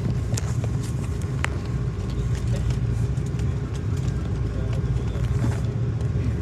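Steady low rumble inside an Airbus A330's cabin on the ground after landing, from the jet engines running at idle, with a steady hum and a few faint clicks.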